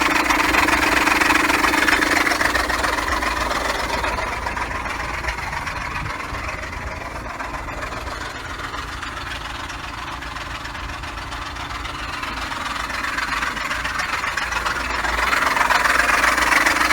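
Tracker's engine running with a rattle, as if something were knocking. It is louder at first, fades in the middle and grows louder again near the end. The noise comes from the worn ribbed drive pulley and idler pulley, whose replacement cured it.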